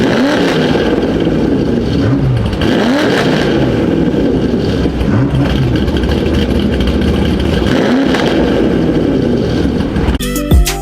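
Vehicle engine revving up and dropping back several times over a steady running sound. Music cuts in abruptly near the end.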